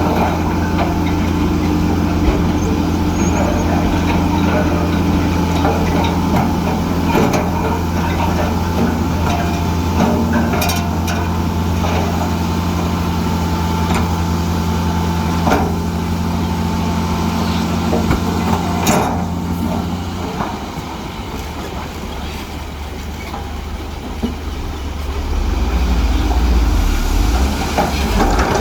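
Heavy diesel engine of earthmoving machinery running steadily, with a few sharp metallic clanks. About two-thirds of the way through the engine drops to a lower note, then rises again near the end.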